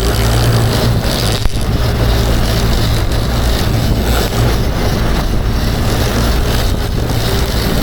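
Boat engine running steadily under way, with wind and water rushing over it; a single short knock about one and a half seconds in.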